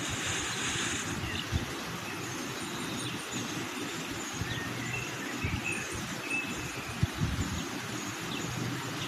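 Outdoor ambience: a steady low rumble with uneven gusts, and small birds chirping faintly and repeatedly throughout.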